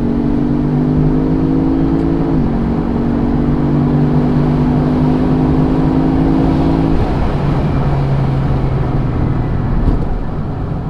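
V8 car engine accelerating hard, its pitch climbing steadily, dropping sharply at an upshift about two seconds in, climbing again, then falling about seven seconds in. Steady road and wind noise runs underneath.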